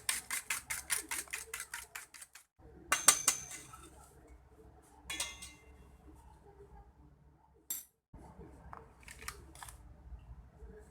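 Brownie batter being beaten by hand in a bowl: quick, even clinks of a utensil against the bowl, about five a second, stopping about two seconds in. After that come a few louder clatters of utensils on the bowl and some sparse light clicks.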